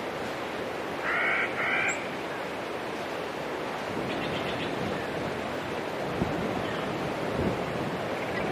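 Forest ambience: a steady rushing background noise with a bird giving two short harsh calls about a second in, and a faint rapid trill about four seconds in.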